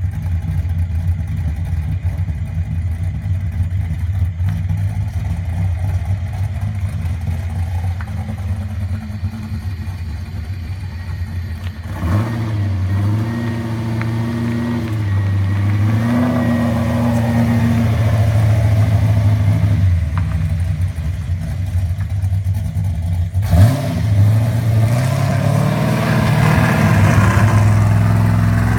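Car engine with a misfire, idling for about twelve seconds, then revved up and down, with the revs climbing again near the end.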